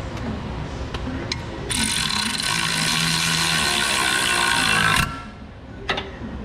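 A cordless power tool runs steadily for about three seconds and then stops abruptly, snugging up a control-arm bolt, not yet to final torque. A few light metallic clicks come before it, and a single knock follows about a second after it stops.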